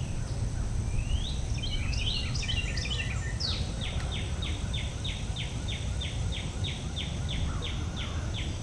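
A songbird singing: a jumble of quick warbled notes, then an even run of about three to four quick falling notes a second that stops near the end, over a steady low rumble.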